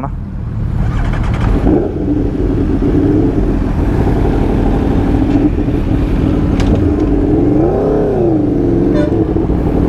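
Aprilia Tuono V4 motorcycle engine running on the move, a steady engine note that rises and falls once about eight seconds in, over a low rumble.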